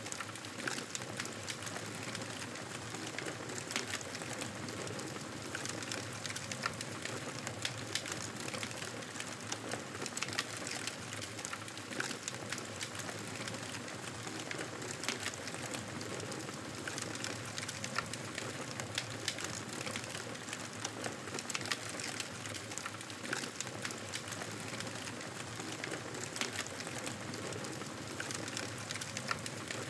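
Campfire burning, with frequent sharp crackles and pops over a steady hiss.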